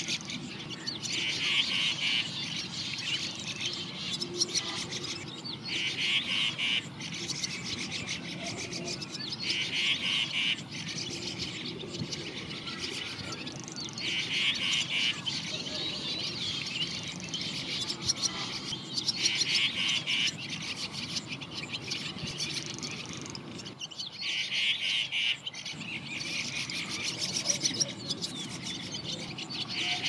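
A songbird gives a short, rapidly pulsing call over and over, about every four to five seconds, against a steady background of other birds chirping.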